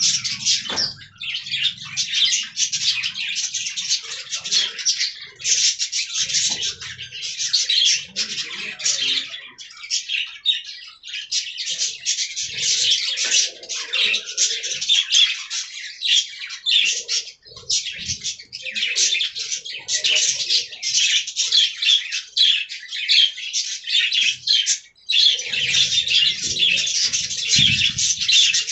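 A colony of budgerigars chattering and warbling together: dense, continuous high-pitched twittering with a few brief lulls.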